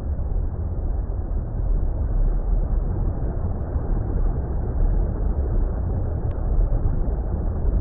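Steady, muffled underwater-style water rumble: an even, unbroken noise, deepest and strongest in the bass, with nothing above the low-mid range.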